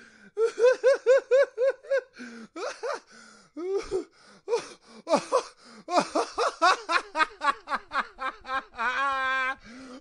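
A person laughing: quick, high-pitched "ha-ha-ha" bursts at about four or five a second, then a run of uneven laughs ending in a drawn-out note lasting under a second near the end.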